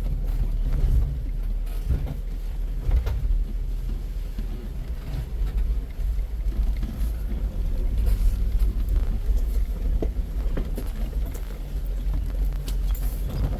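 Off-road vehicle running along a rough trail: a steady low engine and drivetrain rumble with scattered knocks and rattles as it goes over the bumps.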